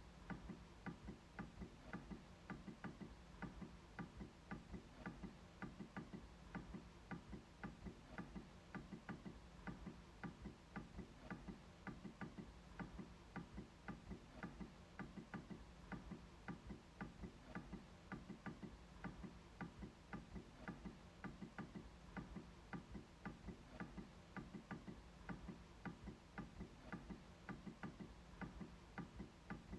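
MacBook trackpad being clicked again and again: faint, steady, evenly spaced clicks, about three to four a second.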